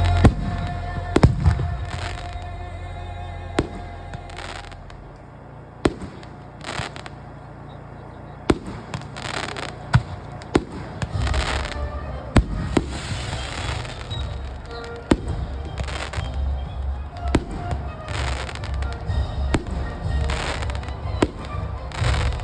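Fireworks bursting overhead: a string of sharp, separate bangs a second or so apart, some followed by crackling, with music playing underneath.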